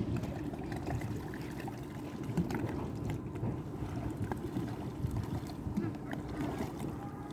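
Small boat moving on a lake: a steady low rumble of water and wind on the microphone, with a few small knocks and faint voices in the background.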